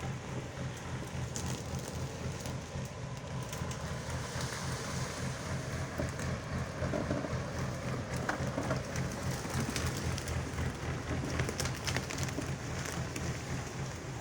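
Engine of an old army 4x4 truck running with a steady, even low throb, over a crackle of rattles and scattered sharp clicks.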